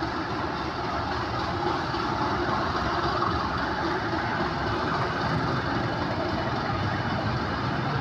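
Passenger train hauled by a Class 37 diesel-electric locomotive running slowly, heard from an open coach window: a steady rumble of wheels on the rails mixed with the locomotive's English Electric V12 diesel engine.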